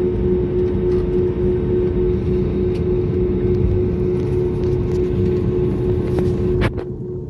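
Steady engine drone inside a moving vehicle, with a constant low hum and rumble. A sharp click comes near the end, after which it runs a little quieter.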